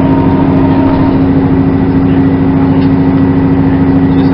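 Diesel train engine running steadily, heard as a loud constant drone with a strong hum.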